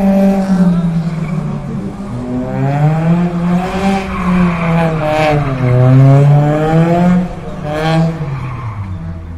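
A sedan's engine revving hard, its pitch climbing and falling again and again as the car is thrown around the course. Short bursts of tyre scrub come through a few times, and the engine drops away near the end.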